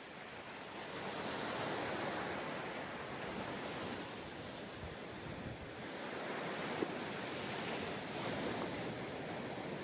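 Ocean waves washing onto a sandy beach, a steady surf wash that swells twice as waves break and run up. There is a brief faint click about seven seconds in.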